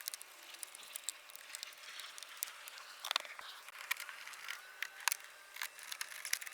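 Scattered light clicks and ticks with faint rustling, as small interior trim parts are handled and fitted by hand.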